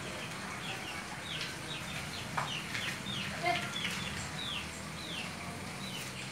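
Birds chirping: a run of short, falling chirps, two or three a second, over a steady low hum, with one brief knock about halfway through.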